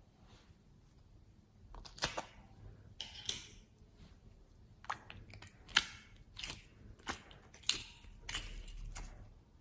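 Slime being squeezed and pressed by hand, giving irregular sharp pops and crackles that start about two seconds in.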